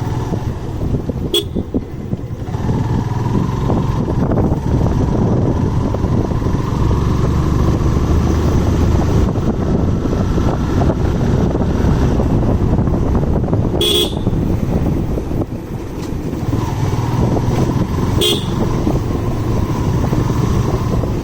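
Motorcycle riding along a road: steady engine and wind-and-road noise, broken by short horn toots about a second in, about 14 seconds in and about 18 seconds in.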